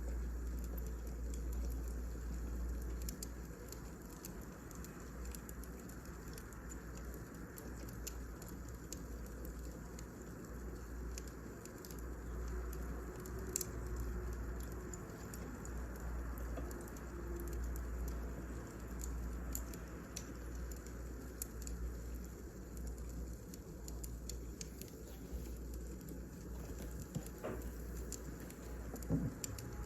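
Wood fire burning in a fireplace: a steady low rumble with frequent small crackles and pops, a louder pop about halfway through and another near the end.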